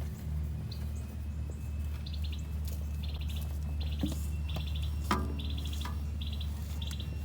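Short trilled chirps from a small animal, repeating about every two-thirds of a second from about two seconds in, over a steady low rumble. Two sharp clicks come around four and five seconds in.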